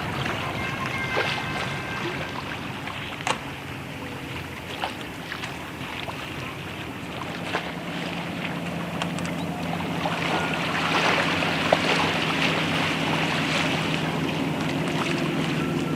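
A boat's engine running with a steady low hum that grows louder about halfway through, over wind and water noise, with a few short clicks.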